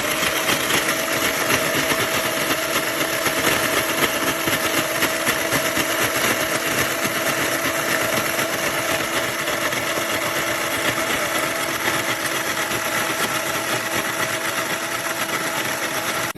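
Reemix electric ice shaver running: its motor whirs steadily while the stainless steel blades shave ice cubes, starting abruptly when switched on.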